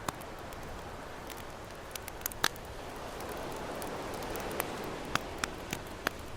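Campfire crackling, with scattered sharp pops, the loudest about two and a half seconds in, over a steady wash of ocean waves that swells about halfway through.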